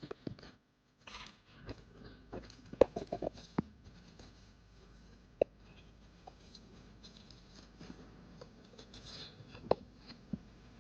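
Scattered light clicks, taps and rustles of objects being handled, with a quick cluster of sharper taps about three seconds in.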